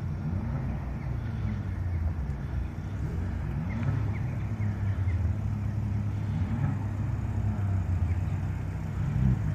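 Engines of a slow line of cars, led by a first-generation Seat Leon, rumbling at low speed as they roll closer, growing somewhat louder near the end.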